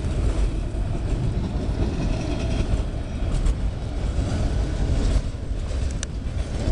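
Freight train rolling past: a steady rumble of wheels on rail, with a couple of sharp clicks, one about halfway through and one near the end.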